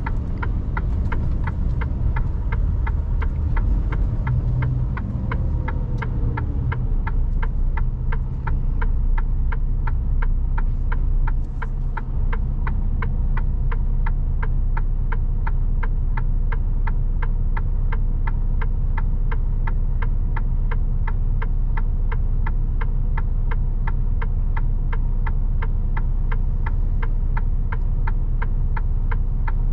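Mercedes Actros truck's diesel engine heard from the cab, its pitch falling over the first few seconds as the truck slows, then running steadily at idle. A regular ticking, a few ticks a second, runs throughout.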